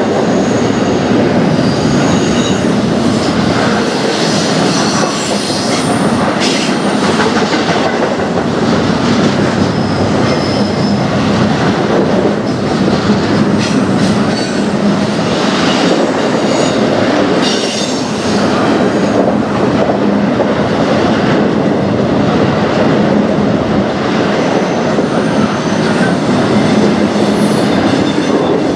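Double-stack intermodal container cars of a freight train rolling past at speed: a steady loud rumble of steel wheels on rail, with brief high wheel squeals and a few sharp clanks now and then.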